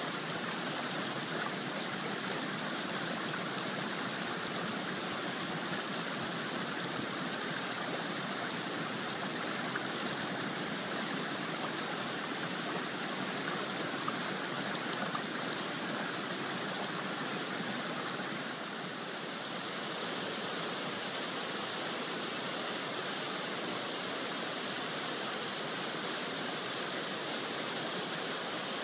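Tall mountain waterfall pouring steadily: a constant, even rush of falling water, dipping slightly for a moment about two-thirds of the way through.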